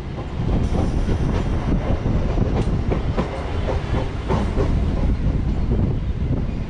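Electric multiple unit (EMU) suburban train running at speed, heard from its open doorway: a steady rumble of wheels on rail with repeated sharp clacks as the wheels cross rail joints, mixed with rushing air.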